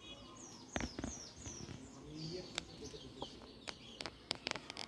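Small birds chirping: a run of four or five quick, high, falling chirps in the first second and a half, then scattered softer chirps. Sharp clicks sound through it, twice near the start and in a cluster of five or six towards the end.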